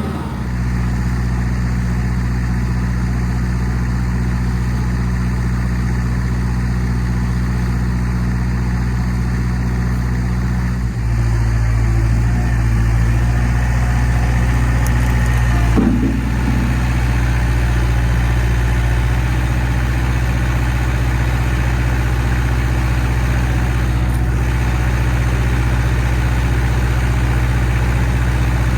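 Engine of a piece of powered equipment running steadily at idle. About a third of the way in its note changes and it gets a little louder, and there is a short bump near the middle.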